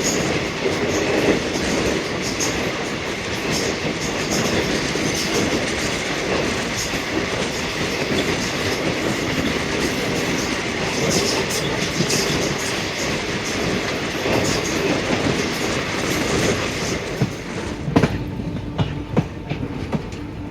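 Passenger coach wheels running at speed over jointed track, a steady rush and clatter heard from on board. About 18 seconds in the rush eases and separate sharp clacks of the wheels over the rail joints stand out.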